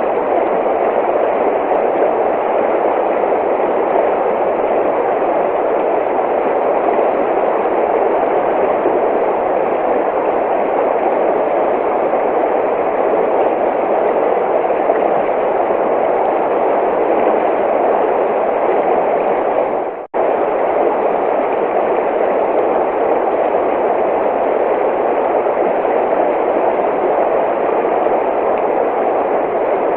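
Steady rushing of running water, an even wash of noise. It drops out for a split second about two-thirds of the way through, then carries on as before.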